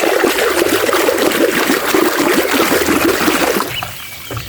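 Running water splashing and trickling in a steady rush that falls away sharply about three and a half seconds in.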